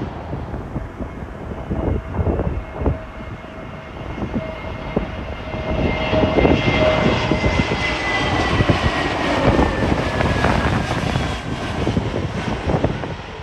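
Airliner's engines on a landing approach: a steady whine with a higher tone that slowly falls in pitch, growing louder about halfway through and easing near the end. Wind gusts buffet the microphone throughout.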